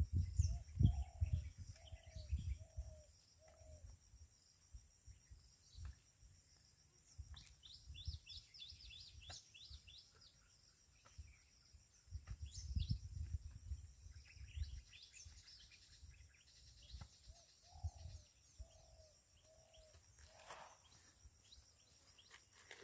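Birds calling over a steady high insect drone: a short low call repeated four times at the start and again later, and a quick run of high chirps near the middle. Low rumbling noise comes and goes at the start and again about halfway through.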